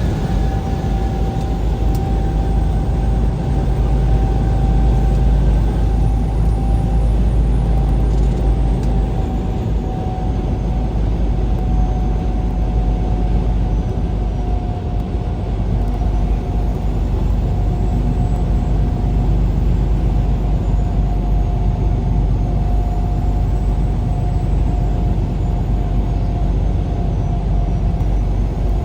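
Vehicle driving on the road: a steady low rumble of engine and road noise, with one steady whine that drifts slowly lower in pitch.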